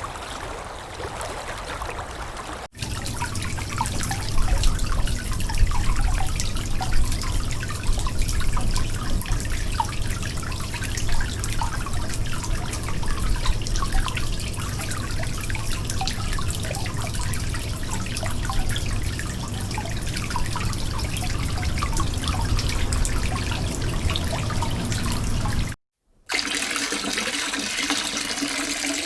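Water leak: a rapid, irregular patter of drips and trickling over a low hum. About 26 s in it cuts to water pouring steadily into a half-full sink. The first few seconds are the tail of a track of water lapping in wind.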